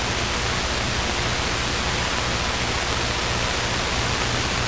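Steady hiss with a low drone beneath it: the Luscombe's engine and cabin noise in flight, heard through the cockpit headset audio.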